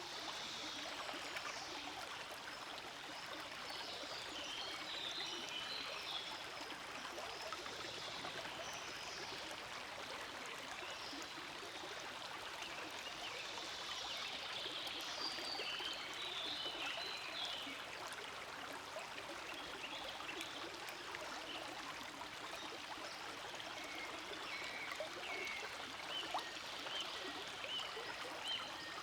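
Forest stream flowing steadily: a continuous rush of water with light trickling.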